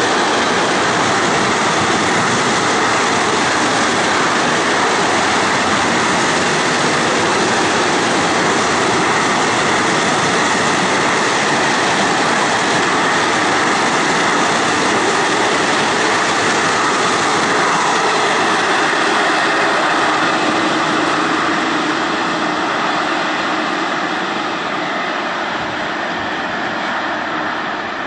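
Container freight train rolling past: a steady rush of wheel-on-rail and wagon noise that starts to fade about three-quarters of the way through as the end of the train draws away.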